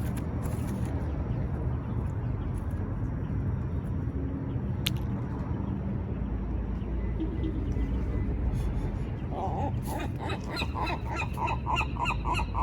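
A gull calling: a fast run of loud, repeated yelping notes, about five a second, starting about ten seconds in, over a steady low rumble of wind or traffic.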